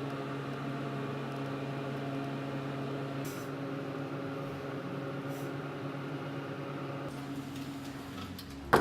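A steady low hum with a few held tones, like a machine running. A brief sharp, loud sound cuts in just before the end.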